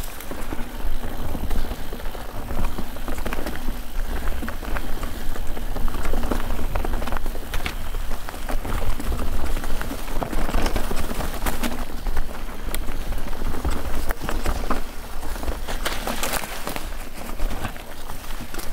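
Guerrilla Gravity The Smash mountain bike descending a rough, rocky trail: tyres rolling over rock and roots with rapid rattling knocks from the bike, over a steady low rumble.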